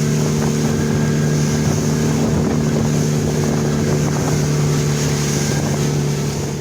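Speedboat engine running steadily at speed, with a constant engine tone over rushing wind and water noise. It fades out near the end.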